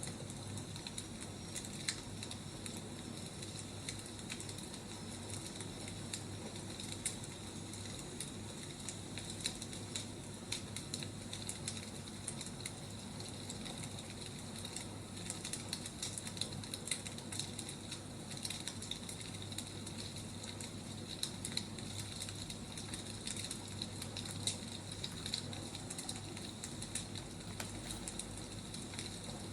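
Wood fire crackling: a steady soft hiss with irregular small pops and snaps from the burning firewood.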